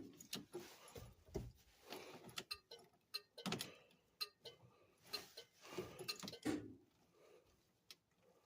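Scattered light metallic clicks, knocks and rattles from hands working on the truck's battery and its cable connections, which the owner then finds to be a bad connection. No engine is running.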